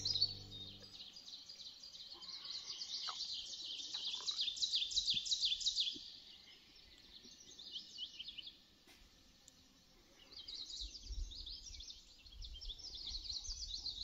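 A small songbird singing long, rapid, high-pitched twittering songs. One song lasts about six seconds and a second starts about ten seconds in.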